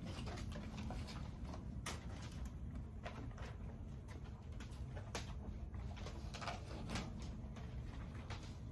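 Quiet forest ambience: a low steady rumble with scattered light clicks, and birds calling.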